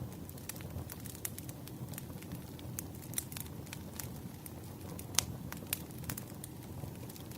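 Wood fire crackling in a fireplace: a steady low rumble of burning with many small irregular pops and snaps, one sharper pop about five seconds in.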